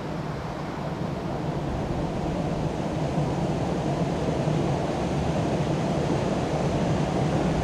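Steady rush of a 104-metre waterfall crashing down close by, growing slightly louder, with wind and spray buffeting the microphone.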